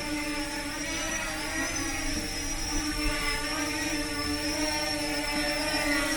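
Parrot Anafi Thermal quadcopter drone in flight, its propellers giving a steady buzzing hum with a thin high whine that wavers slightly in pitch.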